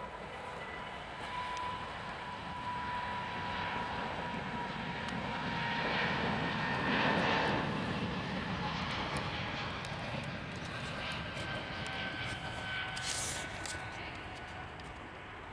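Airliner engines as a plane passes. The sound swells to its loudest about seven seconds in, then fades, while a thin engine whine slowly drops in pitch.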